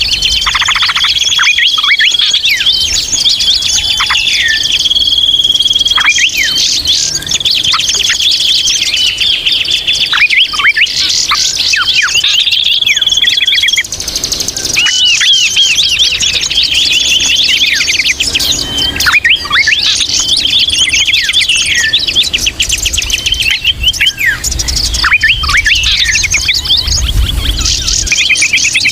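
Many small songbirds chirping and chattering at once, a dense noisy mix of rapid trills, high chirps and short falling calls with no break. It is a 'ribut' (noisy) bird-lure sound meant to draw in wild birds.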